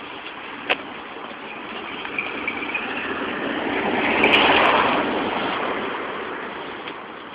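A vehicle passing by: a rush of road noise that swells to a peak about four seconds in, then fades away. There is a single sharp click near the start.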